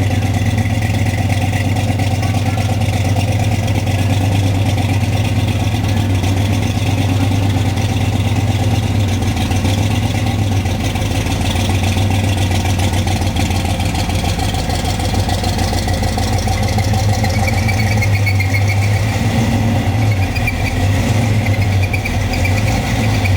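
Supercharged hot-rod engine of a pro-street Chevy LUV truck idling steadily and loudly, with no revving.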